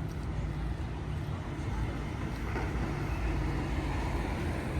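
Steady low rumble of city traffic, with faint voices of passers-by in the middle.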